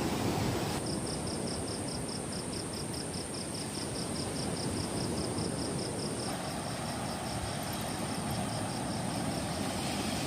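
Steady rush of heavy rain and strong wind, with a night insect chirping high in quick even pulses, about five a second, that stop about six seconds in.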